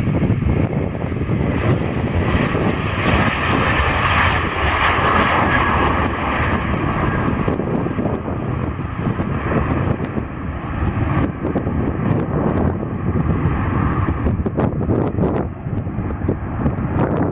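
Airliner jet engines passing: a broad rush with a steady high whine, loudest about four to six seconds in and fading after about eight seconds.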